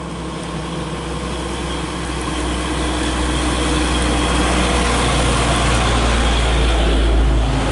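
Heavy road vehicle's engine running, its low rumble growing steadily louder as it draws near.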